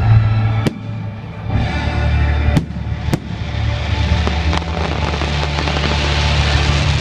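Fireworks bursting overhead: about four sharp bangs in the first half, then a building crackle of many small pops over the last few seconds, all over music played loud on the display's speakers with long held low notes.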